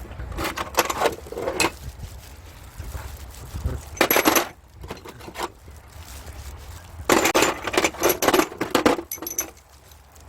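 Metal tools and engine parts clinking and rattling in three bursts, with a bright metallic ring.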